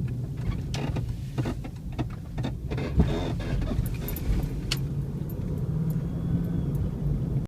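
2002 Jeep Grand Cherokee idling while the steering wheel is turned right, with short squeaks and creaks from the steering over the engine hum. Turning left is silent, and the owner suspects the steering column or steering box.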